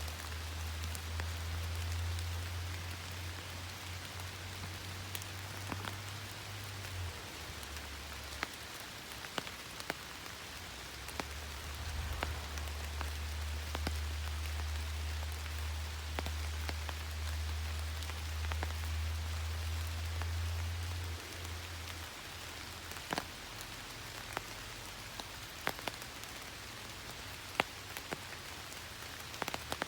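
Steady rain, with many single drops ticking sharply on a surface. A low steady hum lies underneath for the first seven seconds and again from about eleven to twenty-one seconds.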